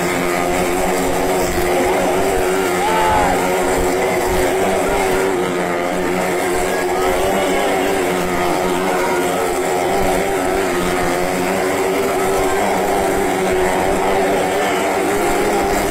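Motorcycle engine running steadily at high revs as it circles the wooden wall of a well of death, its note wavering slightly as it goes round.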